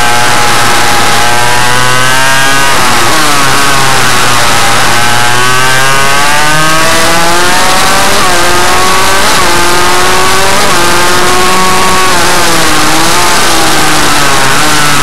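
Small motorcycle engine being ridden hard, loud, its pitch climbing and dropping several times as the throttle opens and closes or the gears change, over a constant rush of noise.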